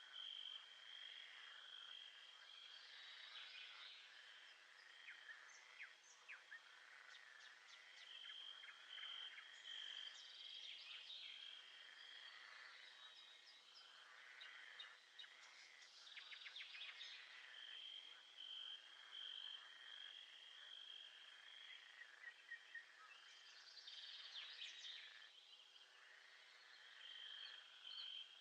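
Faint nature ambience: birds chirping and trilling throughout, over a pulsed high call that comes in runs of a few seconds, about every nine seconds.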